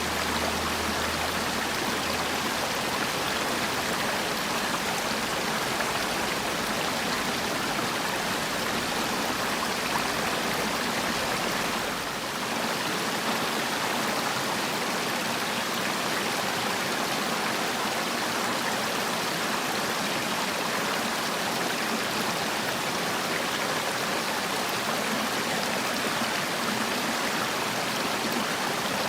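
Mountain valley stream, its water flowing in a steady, even rush.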